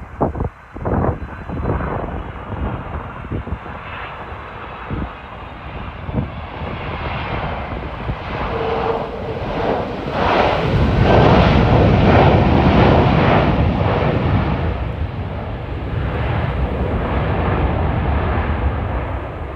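Boeing 767-300ER airliner's jet engines during a landing, a broad roar that swells to its loudest about ten seconds in and then holds. Strong wind buffets the microphone in the first few seconds.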